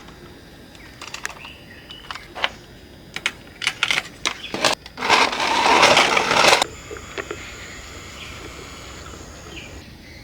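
A run of sharp clicks and knocks from hard parts being handled, then a loud rasping noise for about a second and a half, followed by a faint steady high whine.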